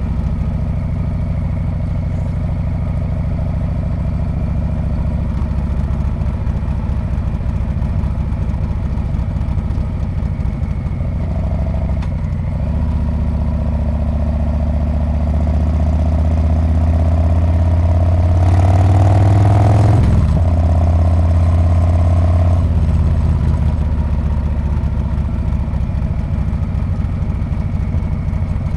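Harley-Davidson Street Bob's V-twin engine heard through its exhaust while riding. Its note climbs steadily under acceleration from about twelve seconds in, drops suddenly at a shift about twenty seconds in, then settles to a steady cruise.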